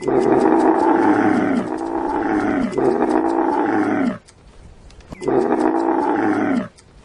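Large animal calling loudly: three calls in quick succession, each a second or so long and falling in pitch, then a short pause and a fourth call near the end.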